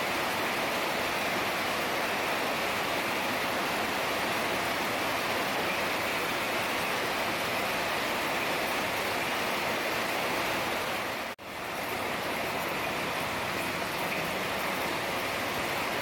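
Heavy rain falling steadily, a dense, even hiss. About eleven seconds in the sound cuts out for a split second and comes straight back, as at an edit in the recording.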